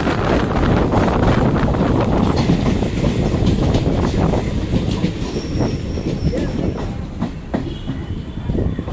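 Electric multiple unit (EMU) suburban train running, heard from on board: a loud rumble of wheels on rails with repeated clacks over the rail joints. The rumble eases a couple of seconds in, and a thin high wheel squeal sounds briefly about two-thirds of the way through.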